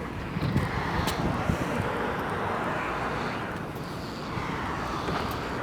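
Gusty wind ahead of a severe thunderstorm, rushing in two swells and buffeting the microphone with a low rumble.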